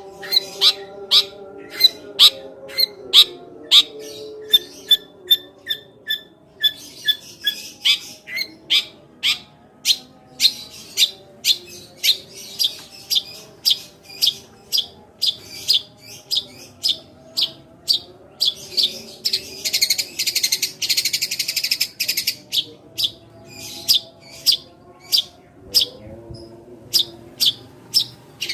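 Long-tailed shrike (cendet) calling in a rapid series of short, sharp, sparrow-like chirps, about two a second, breaking into a harsh chattering burst about two-thirds of the way through.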